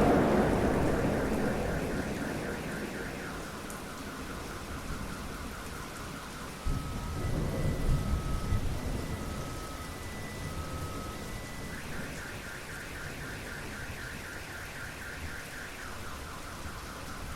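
Thunderstorm with steady rain: thunder from a close strike fades away, and a second rumble follows about seven seconds in. A car alarm cycles through its pattern over the rain, a rapid warble, then slow alternating two-tone beeps, then the warble again.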